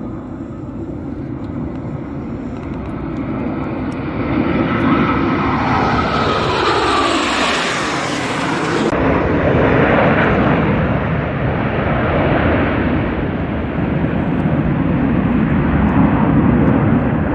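Jet fighters in a low, fast fly-by: the jet noise builds, a high whine falls in pitch as they pass about six to eight seconds in, and a loud rumble carries on after they go by.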